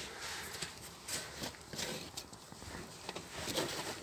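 Faint scattered clicks, light knocks and rustling of hands handling parts in the engine bay, with no engine running.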